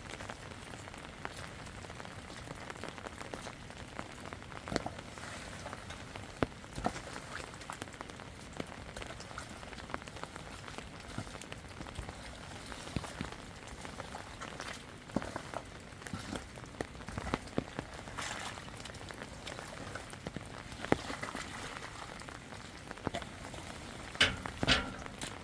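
Steady rain falling, with many drops ticking sharply on nearby surfaces and a few louder knocks close together near the end.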